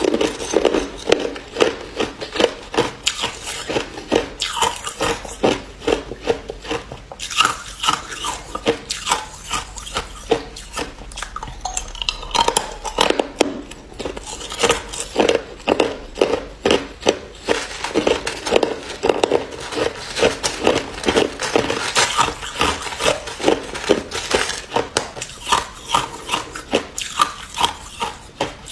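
Hard ice being bitten and chewed close to the microphone: a continuous run of crisp crunches, several a second.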